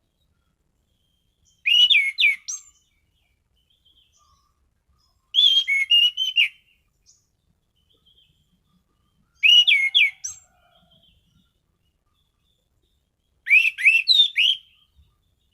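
Orange-banded thrush (anis cendana) singing: four short phrases of loud, swooping whistled notes, one about every four seconds.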